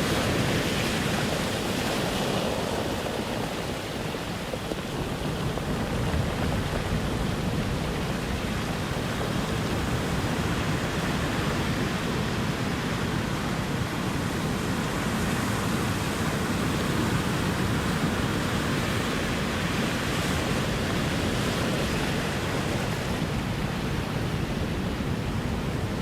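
Ocean surf washing ashore in a continuous rush, with gentle swells and ebbs as waves break.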